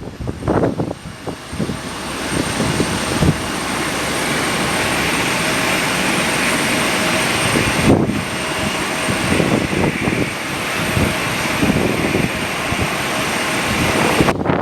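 Airliner engines at an airport, building about two seconds in to a steady, loud rushing noise with a faint whine running through it. At the start, gusty wind buffets the microphone.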